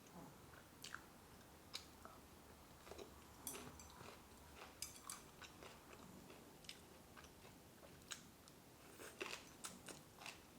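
Faint chewing of food, with scattered light clicks and taps throughout.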